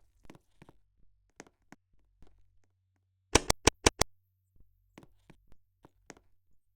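Ceiling fan running with a faint low hum and scattered light ticks. A little past halfway comes a quick run of about five loud clicks.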